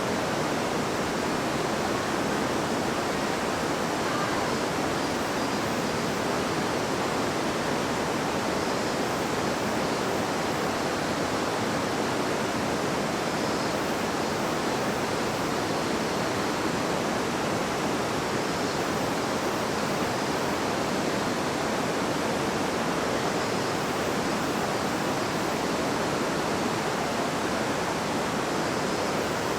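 River water babbling and rushing over rocks, a steady, even hiss with no change in level.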